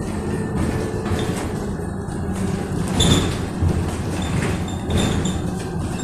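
Electric bus under way, heard from inside: a steady low rumble of tyres on the road, with knocks and rattles from the body, the loudest about three seconds in.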